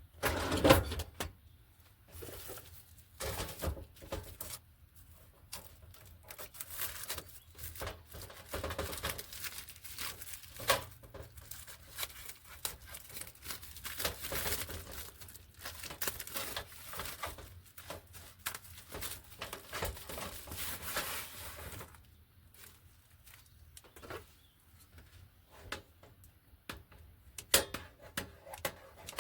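Irregular clicks, knocks and rustles of things being handled and moved in a small room, with a quieter stretch late on.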